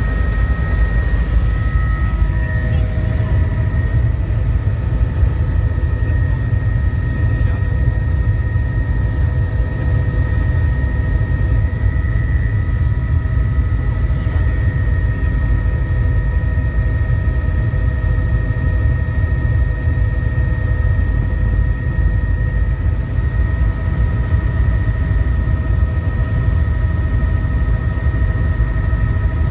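Helicopter in flight: a steady, loud low drone with several steady high whining tones over it, unchanging throughout.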